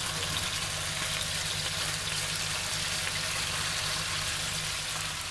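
Skinless, boneless chicken thighs sizzling steadily in hot olive oil in a frying pan as they are turned over to brown the other side.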